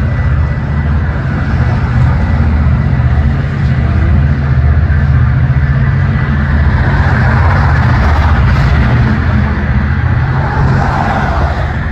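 A train running, with a deep, steady engine rumble and a rushing noise that grows louder about seven seconds in.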